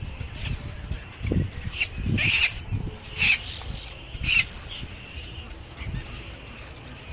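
Birds calling: three loud, harsh calls about a second apart in the middle, with softer calls around them and a few low thumps.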